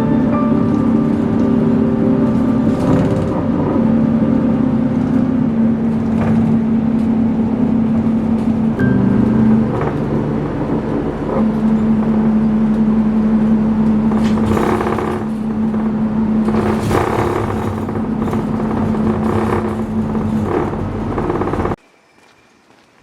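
A vehicle's engine running with a steady low hum that dips and shifts about nine to eleven seconds in, then returns. It cuts off suddenly near the end.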